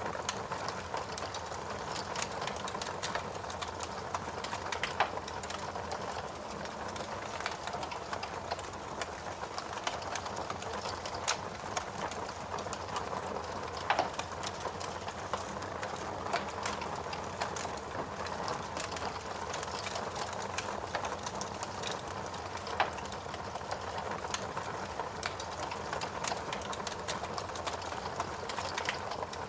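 Wood fire crackling steadily in a fireplace: a dense bed of small crackles with sharper pops every few seconds, the loudest about 14 seconds in.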